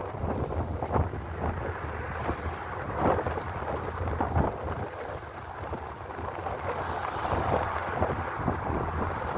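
Wind buffeting a microphone on the move: a rough, uneven rumble with irregular gusts and no engine tone.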